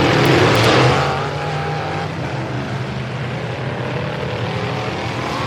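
Several demolition-derby truck engines running hard and revving, pitch rising and falling as they charge across the arena; loudest in about the first second, then settling to a steady roar of engines.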